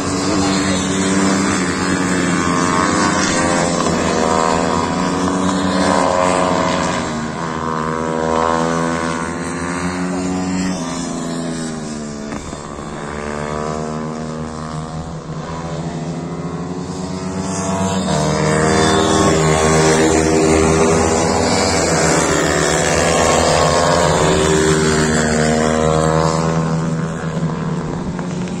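Pitbike engines running at high revs, the pitch climbing and dropping again and again as the bikes accelerate and slow.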